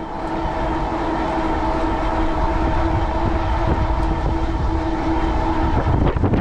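Steady whine of an e-bike's 750-watt Bafang rear hub motor under power, with fat-tyre road hum and low wind rumble on the microphone.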